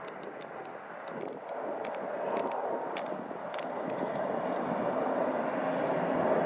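Jet airliner on landing approach: a steady rushing engine rumble that grows steadily louder as the plane comes nearer.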